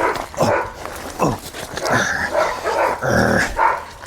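A dog barking repeatedly: short barks and yips that drop in pitch, with a deeper, louder bark about three seconds in.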